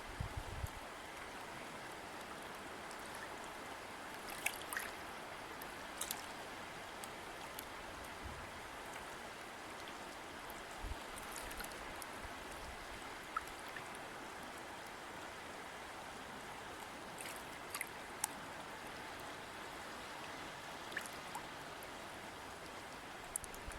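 River water flowing in a steady rush, with scattered brief drips and splashes standing out every few seconds.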